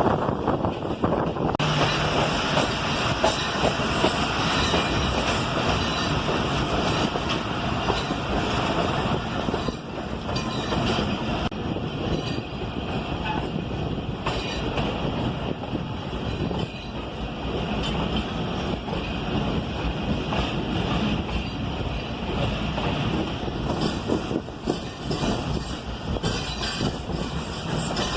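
Moving passenger train running along the track: a steady noise of wheels on rails and rattling carriages, which grows brighter and harsher about two seconds in.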